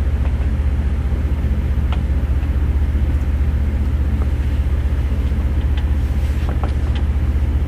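An engine running steadily: an even low drone with a fast, regular pulse and some hiss, with no change in speed.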